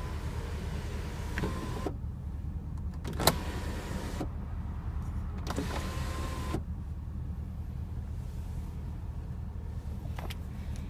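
Electric sunroof motor of a 2015 Porsche Panamera Turbo running and stopping with a click about two seconds in, a sharp clunk a second later, then the motor running again briefly around six seconds in. A steady low hum lies underneath.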